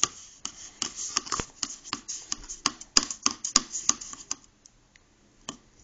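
A paintbrush being dabbed quickly and unevenly, a string of light taps for about four seconds that then stops.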